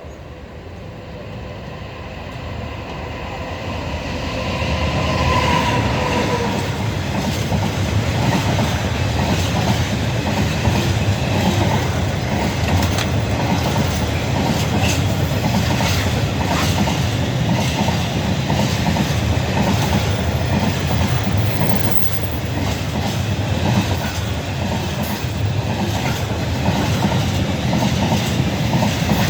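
Class 66 diesel-hauled freight train passing: it grows louder over the first five seconds, with a whine that drops a little in pitch as the locomotive goes by, then a long steady rumble and clatter of wagon wheels over the rail joints.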